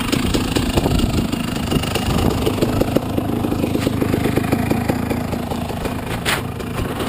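Motocross motorcycle engine idling, a fast, steady run of firing pulses, with a brief hiss about six seconds in.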